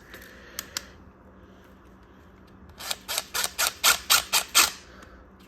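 A tool driving a screw-in tire stud into a pit bike tire: a couple of light clicks, then about halfway in a quick run of about ten sharp clicks, some five a second. The stud is too small and is not biting into the rubber.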